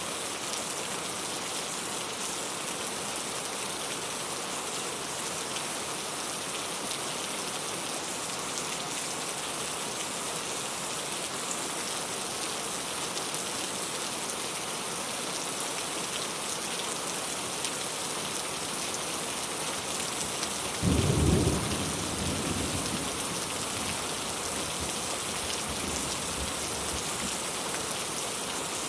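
Steady heavy rain falling, with a sudden low thunderclap rumbling about three quarters of the way through and fading over a couple of seconds.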